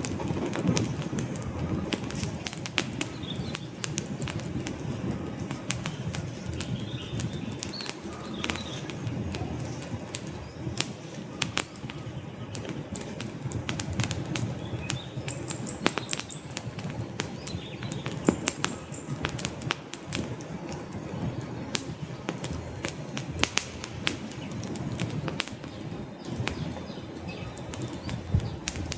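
Wood fire burning in a fireplace: many sharp crackles and pops from the logs over a steady low rush of flames.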